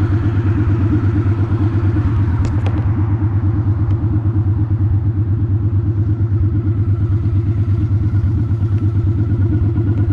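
Honda Shadow ACE 750's V-twin engine running steadily with an even low pulsing and no revving. A few faint clicks sound about two and a half to four seconds in.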